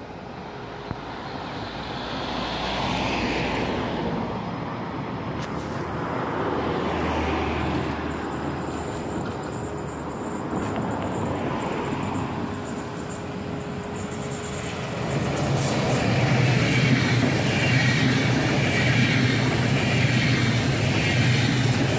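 Electric double-deck regional passenger train running along the tracks, its wheels rolling on the rails. The sound builds as it approaches and gets much louder from about 15 seconds in as the coaches pass close by.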